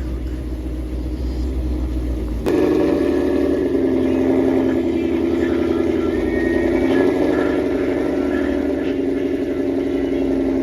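Car engine running with a steady exhaust drone, starting abruptly about two and a half seconds in after a bass-heavy passage.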